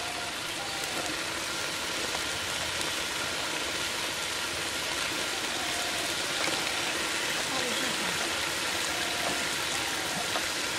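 Spice paste frying in oil in a large aluminium pot, giving a steady sizzling hiss as it is cooked down (koshano) and chicken feet and gizzards are added.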